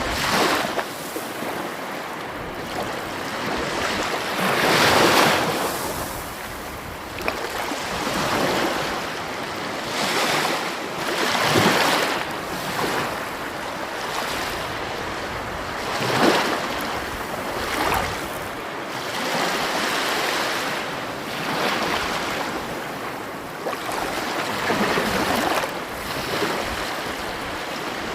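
Sea waves breaking on a shore: a steady rush of surf that swells into louder crashes every few seconds.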